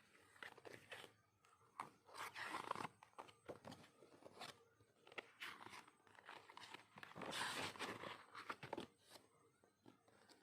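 Quiet rustling and crinkling of paper and plastic packaging being handled, with scattered light clicks and taps. There are two louder bouts of rustling, about two seconds in and again about seven seconds in.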